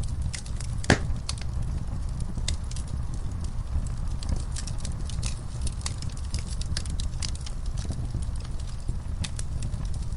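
Fireplace fire crackling: irregular sharp pops over a low steady rumble, with one louder pop about a second in.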